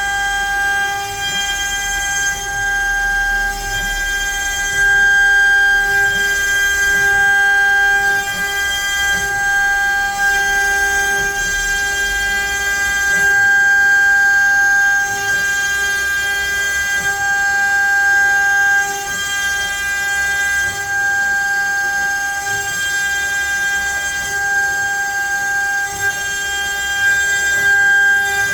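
CNC router spindle whining steadily as the bit cuts into pine, the cutting noise swelling and easing every few seconds as the tool moves through the cut.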